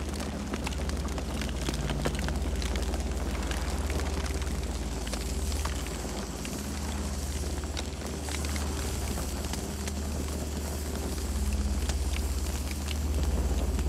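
Campfire burning: wood crackling with many small irregular pops over a steady low rumble.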